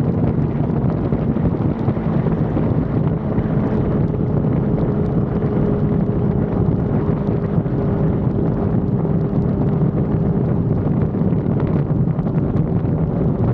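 Sport-bike engine running at a steady speed under heavy wind noise on the microphone, as heard from a motorcycle being ridden. The engine note holds nearly steady.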